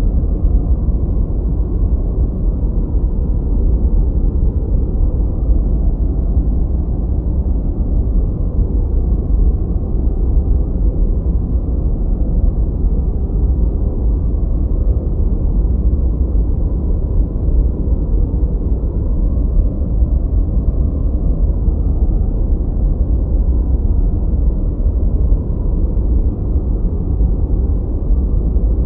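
Continuous generated noise, offered as white noise but deep and muffled: its energy sits low, with no high hiss. It holds steady without change.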